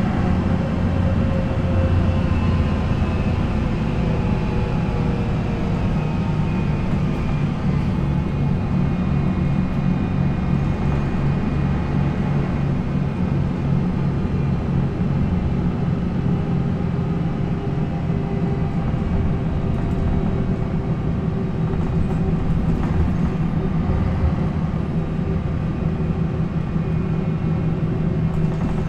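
MAN NL 263 bus's D28 diesel engine running steadily, its pitch easing down a little over the first several seconds and then holding level.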